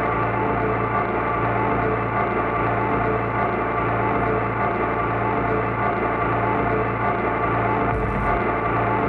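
Ambient electronic music: a dense, sustained drone of many layered steady tones, metallic and gong-like, with no clear beat. A brief low thump comes in near the end.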